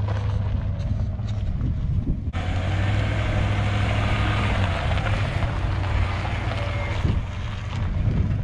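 1992 Ford F150's 302 V8 engine running under way, a steady low drone, heard from the truck. A louder hiss joins about two seconds in and dies away near the end.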